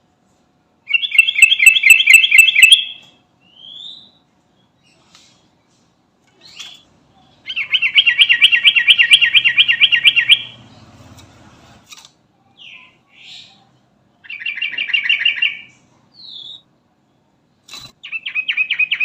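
Sooty-headed bulbul (trucukan) singing: four bursts of fast, rattling trills, each one to three seconds long, with short single call notes between them.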